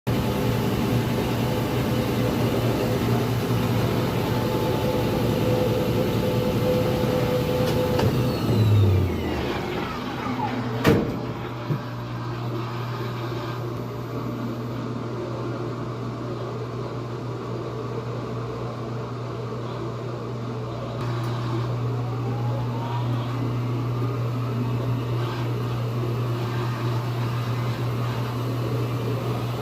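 GE washing machine on its spin cycle, running normally with a steady mechanical hum. About nine seconds in, a falling whine ends in a sharp click, and the hum then settles into a steady low drone.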